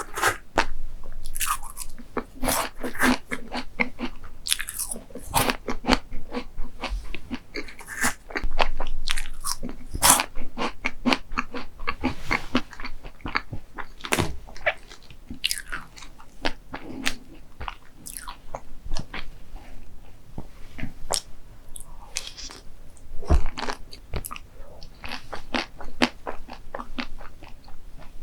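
Close-miked eating sounds: a person biting and chewing crunchy dessert, with many irregular sharp crunches and crackles.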